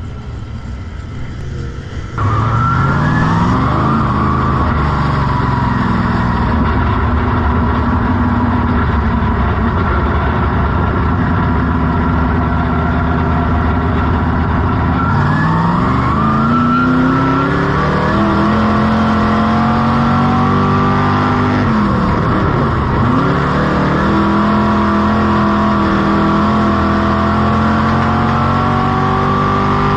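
Dirt-track modified race car engine running hard, the engine note climbing as it accelerates and dropping sharply twice when the throttle is lifted. The sound gets suddenly louder about two seconds in.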